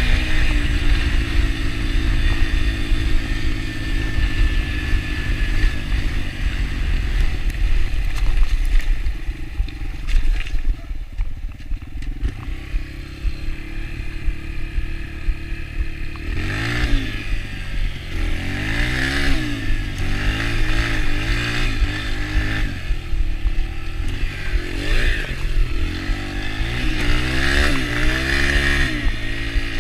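Yamaha TT-R125 dirt bike's single-cylinder four-stroke engine under riding, steady at first. It eases off about a third of the way in, then revs up and down repeatedly in the second half, over a heavy low rumble.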